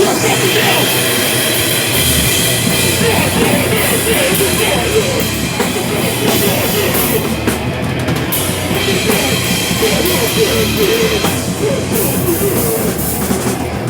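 A live rock band playing loud, heavy, metal-style music, with the drum kit prominent.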